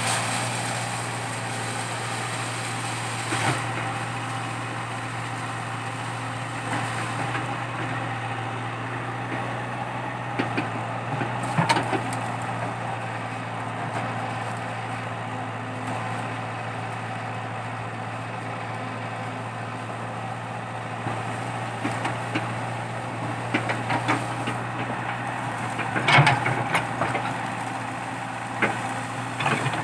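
Komatsu PC80 excavator's diesel engine running steadily while it digs out a eucalyptus stump, with a few sharp cracks of wood and roots breaking, the loudest near the end.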